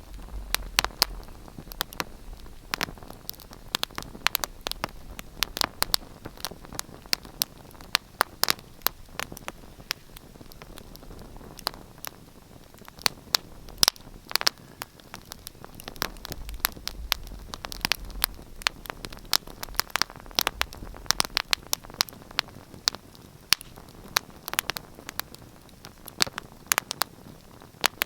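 Wood fire in a fireplace crackling: dense, irregular sharp pops and snaps over a soft hiss, with a low rumble that comes and goes.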